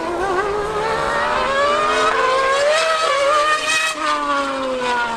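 High-revving racing engine accelerating hard, its note climbing for about four seconds, then breaking off suddenly and falling away.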